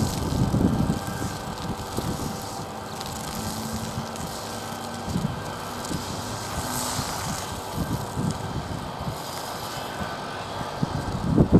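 Four turbofan engines of a Boeing C-17A Globemaster III running during its landing, a steady drone with faint steady tones in it, broken by gusts of wind buffeting the microphone.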